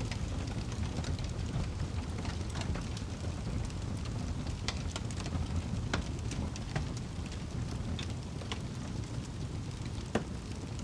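Wood fire in a fireplace crackling, with irregular sharp pops over a low steady rumble of the flames; one louder pop near the end.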